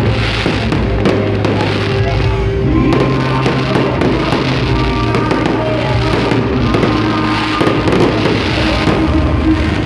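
A fireworks display bursting in rapid, repeated bangs and crackles over loud music with a heavy bass line.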